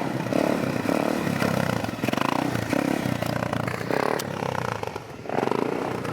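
Motorbike engines running and revving, the note rising and falling unevenly.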